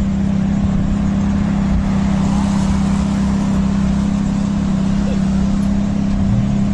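Ferrari F430 Spyder's V8 engine idling steadily, with an even low tone.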